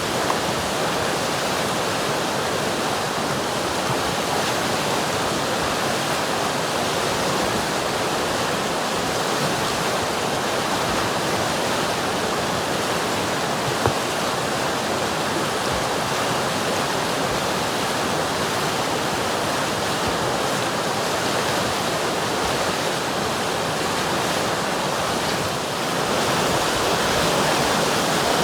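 River water rushing and burbling in a steady, even flow, with one brief click about halfway through and a slight swell near the end.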